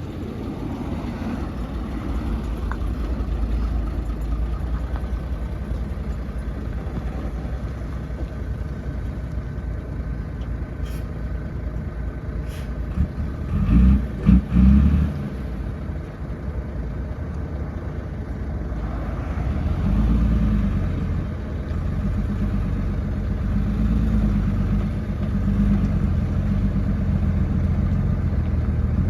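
Heavy diesel earthmoving machinery, an excavator and dump trucks, running as a steady low rumble that swells under load from about two-thirds of the way through. About halfway through there are two brief loud bursts.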